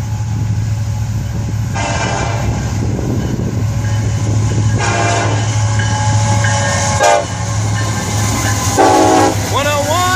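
Florida East Coast Railway freight train's diesel locomotive rumbling past as its multi-chime air horn sounds the grade-crossing signal: two long blasts, a short one, then a long one.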